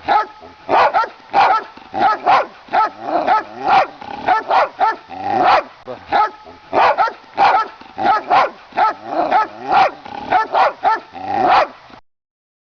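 Dog barking rapidly and repeatedly in quick clusters of two or three barks, then cutting off suddenly near the end.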